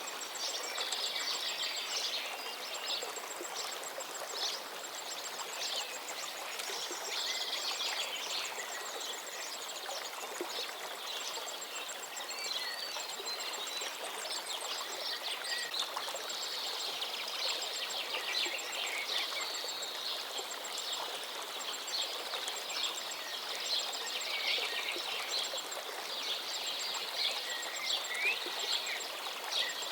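River water flowing steadily, with many small birds chirping over it and a high, rapid ticking call repeating throughout.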